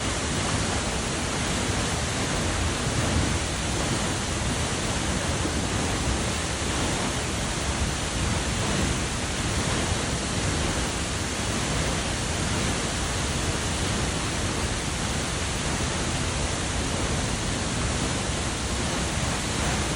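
Waterfall pouring, a steady rush of water with no change in level.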